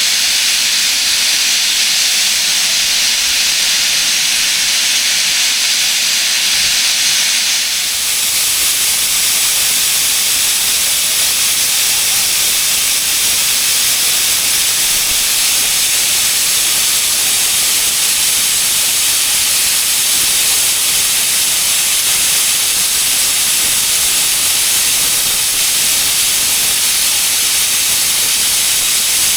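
Class 01 steam locomotive 01 066 venting steam: a loud, continuous hiss that broadens and deepens about eight seconds in.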